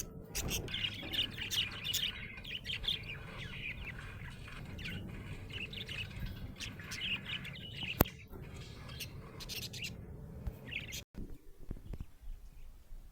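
Budgerigar chirping in quick, busy runs, densest in the first few seconds and then in scattered bursts, over a low background hum. A single sharp click about eight seconds in.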